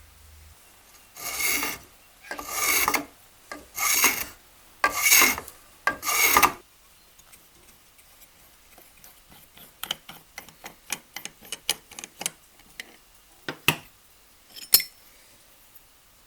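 Stanley No.130 block plane drawn across wood in five quick rasping strokes, then a run of light clicks and taps.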